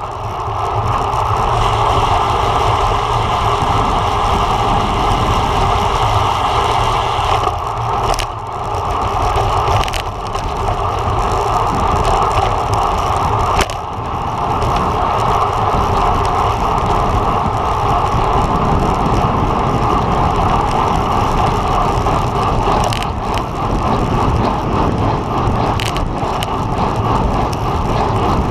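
Road bike ridden at race speed: steady rushing wind noise and tyre hum on pavement, with a few brief knocks along the way.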